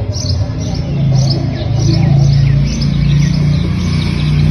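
Small birds chirping rapidly and repeatedly, several short falling chirps a second, over a loud steady low drone.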